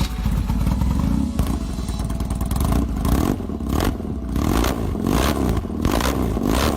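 Custom BMW R-Series motorcycle's boxer twin engine running, then revved repeatedly from about three seconds in.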